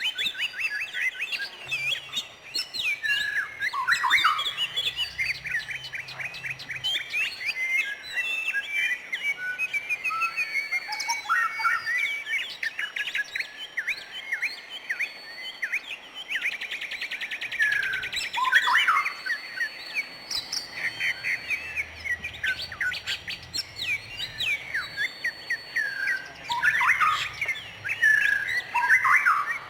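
Several birds chirping and singing at once, a dense run of short overlapping calls and sweeps, with a fast trill a little past the middle.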